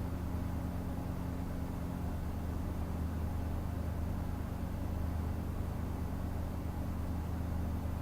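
Steady low electric hum of workshop machinery, a motor or mains hum, holding level without change.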